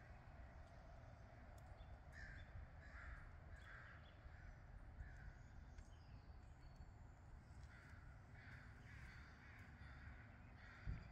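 Faint bird calls in two runs of short, repeated calls, about two a second, the first starting about two seconds in and the second near the end, over a low rumble with a brief low thump at the very end.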